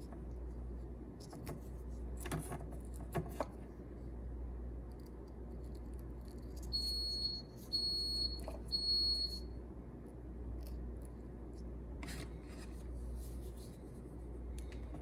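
Three high-pitched electronic beeps in a row, each under a second long, about halfway through, over a steady low hum with a few light clicks and handling knocks.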